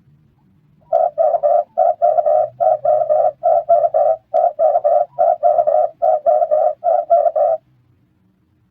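Red turtle dove cooing: a fast run of short, rough coos, about three a second, that starts about a second in and stops after some six and a half seconds.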